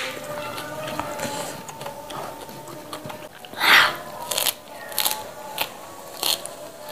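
A person bites crunchily into a mouthful of raw leafy greens about halfway through, then chews with short, sharp, wet mouth clicks.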